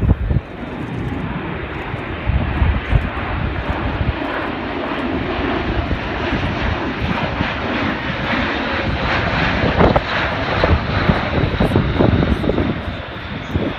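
Airbus A400M Atlas turboprop airlifter flying past, its four turboprop engines giving a steady loud drone. The drone swells to its loudest past the middle and eases slightly near the end.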